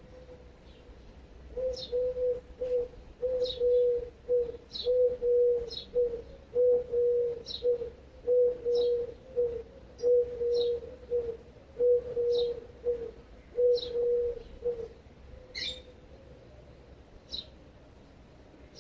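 Garden birds calling: one bird gives a long series of short, low notes, all on one pitch, which stops about three-quarters of the way through, while another gives a brief high chirp about once a second.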